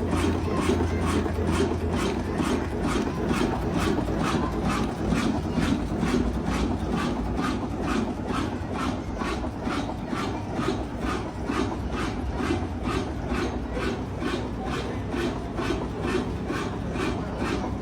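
Old diesel engine running at a slow, steady speed, each firing stroke a distinct knock at about two to three a second over a low rumble.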